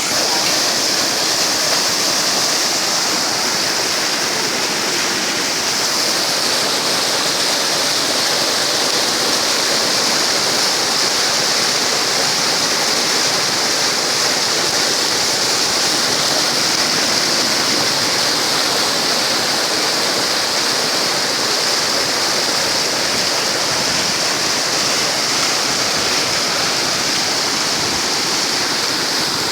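Steady rush of a fast-flowing river swollen by heavy rain.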